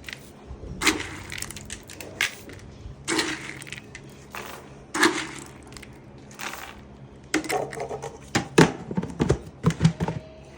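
Scoops of fly-control supplement poured into the horses' feed pans one after another, each pour a short rush of sound, about one every two seconds. Near the end comes a run of quick clicks and knocks.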